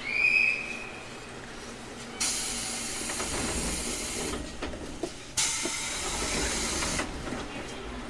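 Aboard a JR Kyushu 811 series electric train: a short high whistle-like tone at the start, then loud bursts of hissing, each about two seconds long, that start and stop abruptly over a low running rumble.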